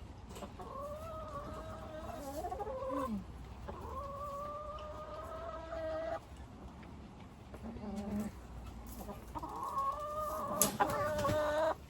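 A hen calling in long, drawn-out calls, three of them lasting about two seconds each, with a few shorter calls in between: the uneasy calls of a hen unsettled by someone working in her crate. A brief clatter sounds near the end.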